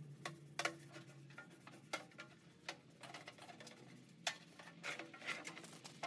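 Faint, irregular light clicks and taps, about a dozen spread over six seconds, with a low hum fading out in the first second or so.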